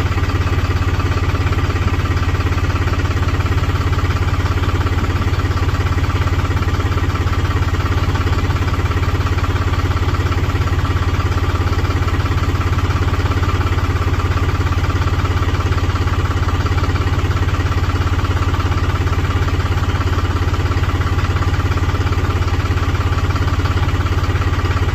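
An engine running steadily at one even speed, with no change in pitch or load.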